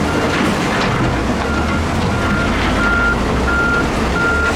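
Reversing alarm on a heavy diesel earthmoving machine, a single-tone beep repeating about one and a half times a second, over the steady low rumble of the engine.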